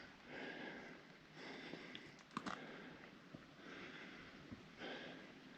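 Faint heavy breathing of a hiker climbing a steep trail, a soft rhythmic in-and-out about once a second, with a couple of footstep clicks about halfway through.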